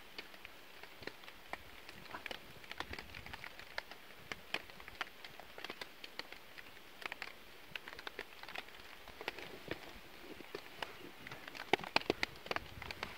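Raindrops pattering: irregular sharp ticks, several a second, over a soft steady hiss, with a cluster of louder ticks near the end.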